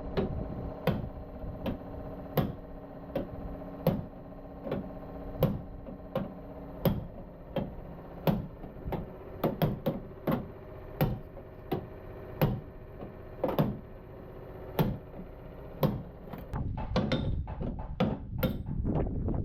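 Hammer blows on sheet metal, struck at an even pace of about one every three-quarters of a second, each ringing briefly, over a steady hum. In the last few seconds the strikes come faster and rougher.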